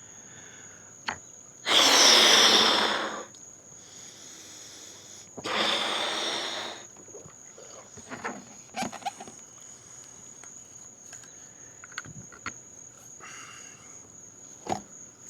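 A person blowing up a rubber balloon by mouth: two long, forceful breaths into it, each about a second and a half, with a quieter intake of breath between them. Crickets chirp steadily throughout.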